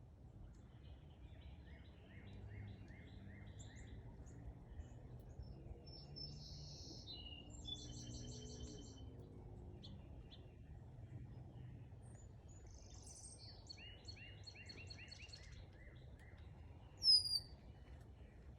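Small songbirds singing: series of short repeated chirps and trilled phrases, with one sharp, loud high-pitched call near the end, over a faint low background rumble.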